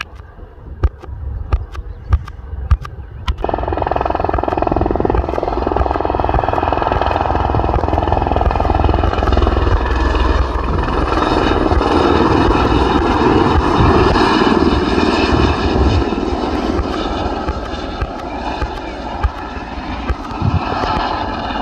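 Helicopter running: a low rotor beat throughout, and from about three seconds in a sudden rise to a louder rush of noise with a high turbine whine.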